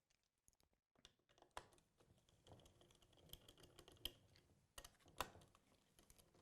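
Faint, sparse clicks and ticks of a screwdriver undoing two countersunk screws in the base of a Festool OF 1010 router, about six light clicks spread over several seconds, the loudest about five seconds in.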